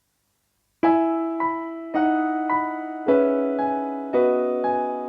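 Yamaha Clavinova CLP-300 digital piano being played, starting about a second in. A chord sounds roughly once a second, with a softer note between each pair of chords, and each is left to ring and fade.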